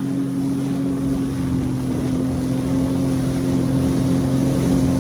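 Jet ski engine running at a steady high speed, one constant even drone, over a hiss of wind and water.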